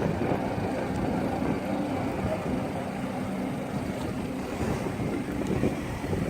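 An engine running steadily at a constant speed, with wind noise on the microphone.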